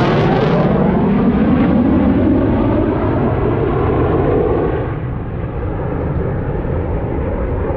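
A fixed-wing aircraft flying past and moving away, its engine roar dulling and fading over the first few seconds. Wind rumbles on the microphone underneath.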